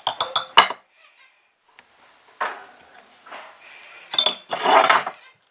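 Spoon clinking against a small container as spoonfuls of fenugreek are measured into water: a quick run of clinks at the start, then short scraping noises, the loudest near the end.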